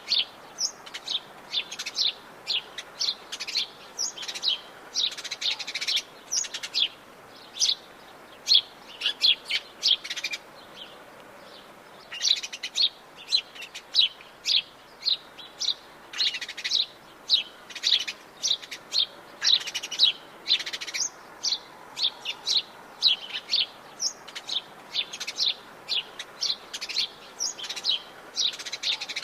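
Many small birds chirping and singing together in a dense, continuous chorus of short, high chirps several times a second, over a faint steady background hiss.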